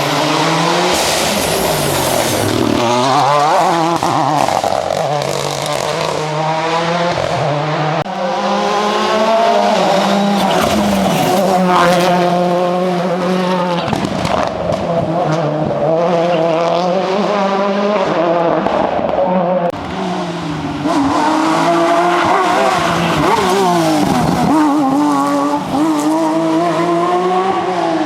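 Ford Fiesta RS WRC rally car's turbocharged 1.6-litre four-cylinder engine revving hard, its pitch climbing and dropping again and again as it accelerates through the gears and backs off.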